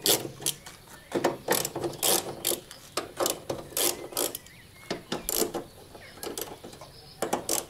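Hand ratchet wrench turning bolts on a car's front wing and radiator support, clicking in short irregular bursts with each swing.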